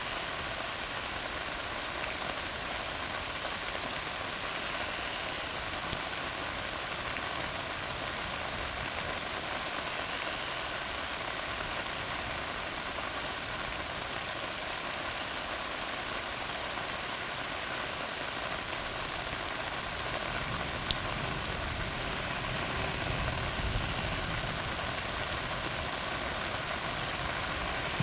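Steady rain falling on a tar road, an even hiss with occasional sharp drop splashes. A low rumble swells briefly about three quarters of the way through.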